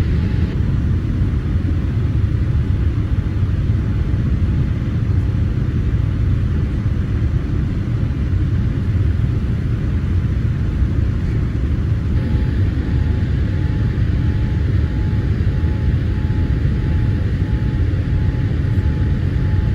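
Steady low rumble of a Boeing 787-8 airliner's engines and airflow heard from inside the cabin.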